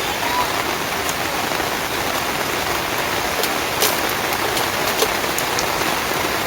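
Steady heavy rain, with occasional sharper drop taps.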